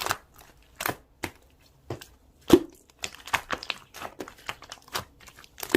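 Slime being squeezed and poked by hand, giving irregular sharp clicks and crackling pops.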